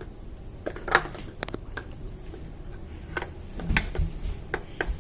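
Plastic popsicle molds being handled on a counter: a scattered series of light clicks and knocks.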